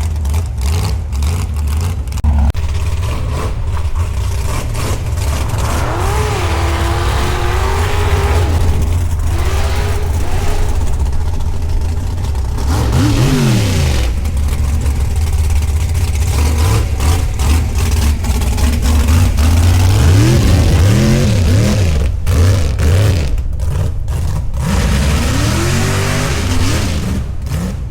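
A vehicle engine running with a heavy low rumble, revving up and falling back several times.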